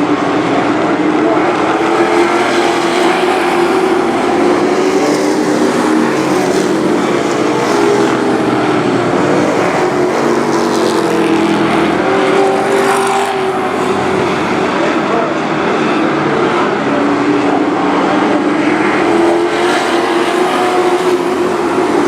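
A pack of race trucks' engines running hard around a short oval track. Several engine notes overlap, their pitch rising and falling as the trucks go through the turns and past.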